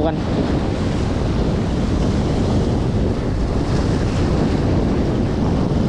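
Strong wind buffeting the microphone, a steady, loud rushing noise with no break, over the wash of choppy sea water.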